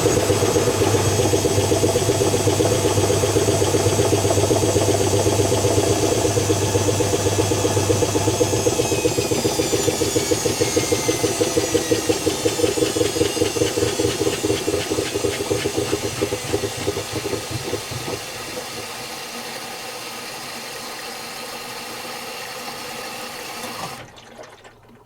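Zanussi FC1000 compact washing machine spinning with a steady high motor whine and hum. About a third of the way in the motor cuts out and the drum coasts down: the whine falls in pitch and a rhythmic rumble slows and fades, then the sound drops away near the end.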